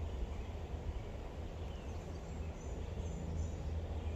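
Outdoor ambience: a steady low rumble of wind on the microphone, with a few faint bird chirps about two and a half to three and a half seconds in.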